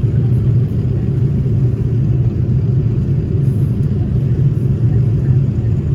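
Steady low rumble of an airliner in flight, heard inside the cabin: engine and airflow noise.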